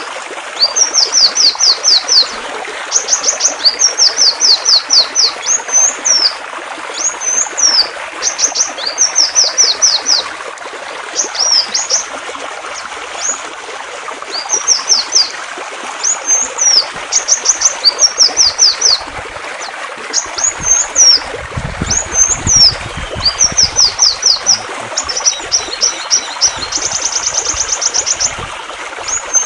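A songbird singing over steadily running water. It gives repeated phrases of quick, high, downward-sweeping notes and hooked whistles, with a fast trill near the end.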